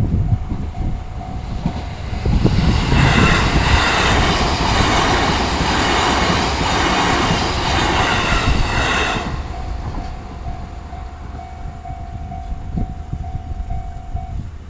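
A train runs through a railway level crossing, its wheel and rail noise with high squealing tones building about two and a half seconds in and dying away after about nine seconds. The crossing's electronic alarm, a Tohoku-type tone, rings steadily around the train's passing and cuts off near the end.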